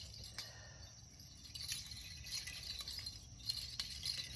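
Faint, light jingling rattle made of many small, irregular ticks.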